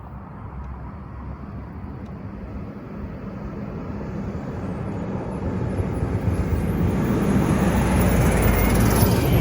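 Diesel garbage truck approaching, its engine running and growing steadily louder as it draws near.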